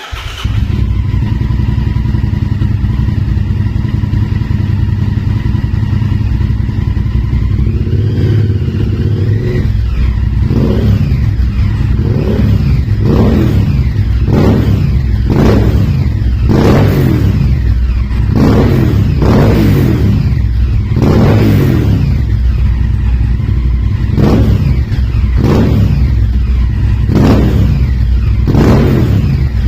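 Honda Varadero V-twin motorcycle engine comes in abruptly and idles steadily. From about ten seconds in it is revved again and again, one quick rise and fall in pitch about every second.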